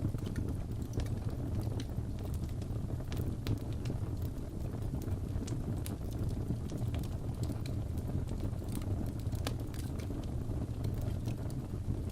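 Fireplace fire burning with a steady low rumble and irregular sharp crackles and pops of burning wood.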